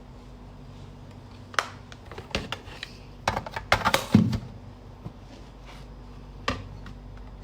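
Several sharp clicks and knocks of objects being handled, bunched in the middle with a last one near the end, over a steady low hum.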